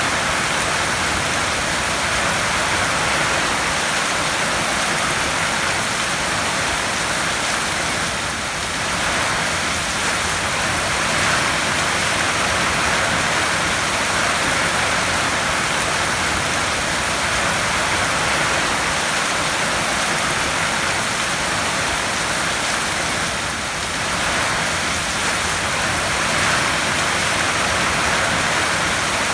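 Heavy rain falling on a tin roof: a steady, dense hiss, dipping slightly twice.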